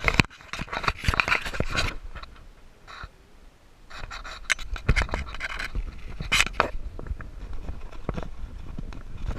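Volcano board scraping and crunching over loose volcanic gravel, in irregular surges with sharp clicks of stones, starting suddenly and over a low rumble of wind on the microphone.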